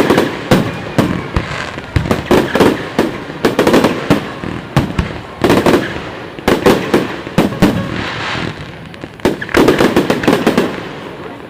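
Fireworks display: rapid volleys of sharp bangs from bursting shells, coming in clusters every second or two, thinning out near the end.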